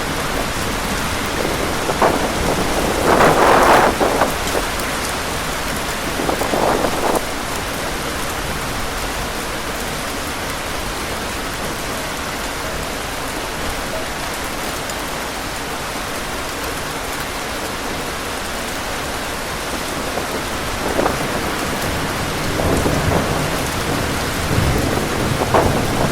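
Heavy rain pouring steadily, with a few brief louder surges: about three seconds in, around seven seconds, and again near the end.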